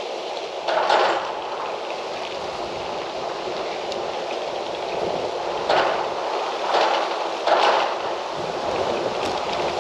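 Wind blowing steadily, swelling into short louder gusts about a second in and several times in the second half.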